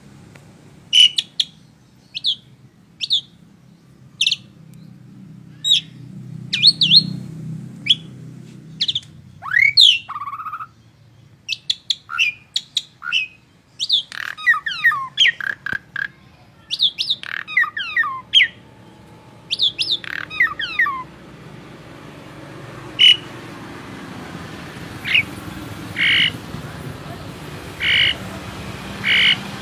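Songbird calling in a fast series of sharp chirps and downward-sweeping whistled notes, busiest for the first twenty seconds, then in fewer, spaced notes.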